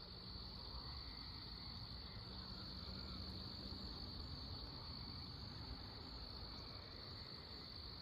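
Crickets trilling at night: one steady, unbroken high-pitched trill over a faint low background rumble.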